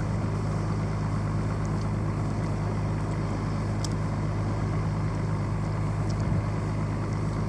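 Boat engine running steadily, a low even drone that does not change.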